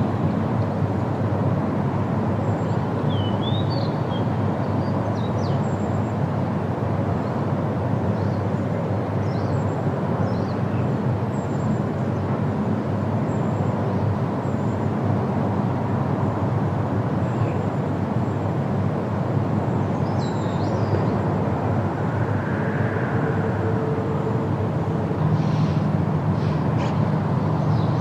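Steady wind rustling through forest leaves, with brief bird chirps now and then. A faint steady hum comes in over the last few seconds.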